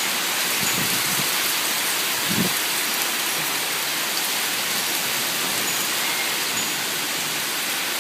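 Steady rain shower falling, an even hiss, with a few soft low thumps about a second in and again near two and a half seconds.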